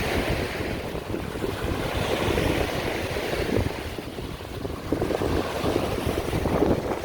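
Strong wind buffeting the microphone in uneven gusts, over the hiss of waves washing onto a sandy beach.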